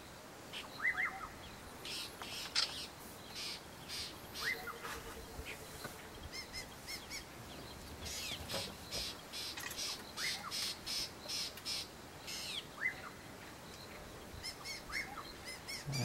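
Drongo giving repeated short, sharp chirping calls, scolding a leopard as a predator.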